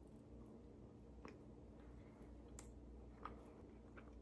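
Near silence with a handful of faint, short mouth clicks: a person chewing a bite of soft Tunisian pastry with her mouth closed.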